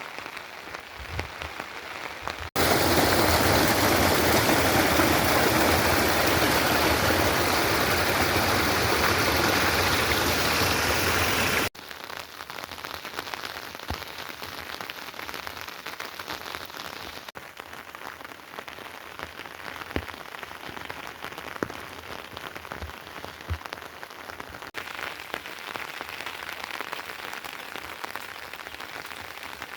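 Rain falling steadily with scattered drips. A few seconds in, the sound cuts abruptly to a much louder, denser rush of heavy rain for about nine seconds, then drops back just as suddenly to lighter rain.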